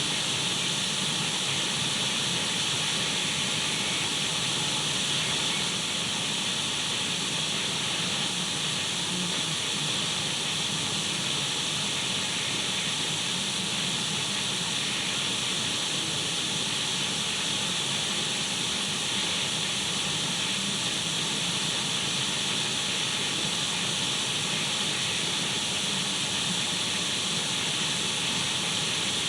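Radio static from an untuned radio: a steady, even hiss that does not change.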